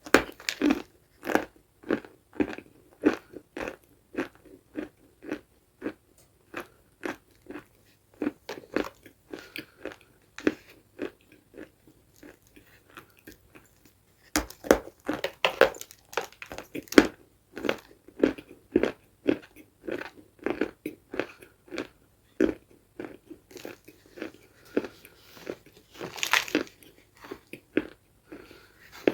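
Dry, crunchy food bitten and chewed close to the microphone: a steady run of crisp crunches that goes quieter for a few seconds in the middle, then picks up louder again.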